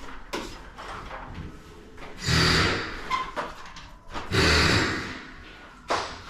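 Garage door hardware rattling and scraping in two short bursts of under a second each, with a sharp knock near the end.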